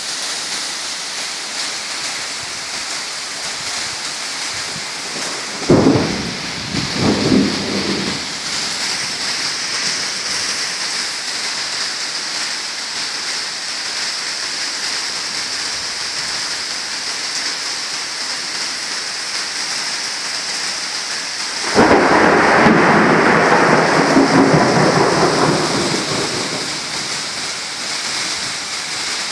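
Heavy rain falling steadily in a severe thunderstorm. A few seconds in there are two quick sharp thunder cracks. Later a louder peal of thunder breaks suddenly and rumbles for about four seconds before fading back under the rain.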